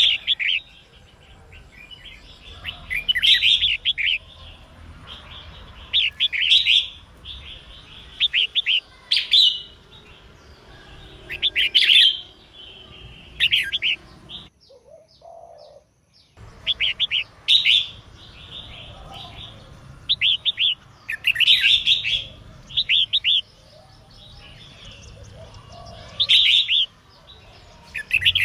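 Female red-whiskered bulbul singing: short bursts of quick chirping notes every two or three seconds. This is the female's song that calls males and stirs them to sing. About halfway through, the sound drops out briefly.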